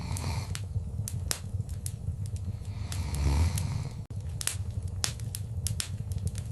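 Wood fire crackling: irregular sharp pops and snaps over a steady low rumble of the flames, with a louder low surge about three seconds in.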